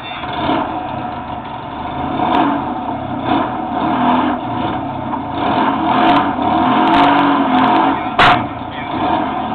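Fiat 126 racing car's engine running at the start line, with short blips of the throttle that rise and fall in pitch, and one sharp knock about eight seconds in.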